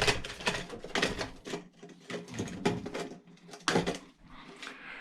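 Irregular clanks, clicks and rattles of metal parts from an old battery charger being handled during teardown, with a louder knock near the end.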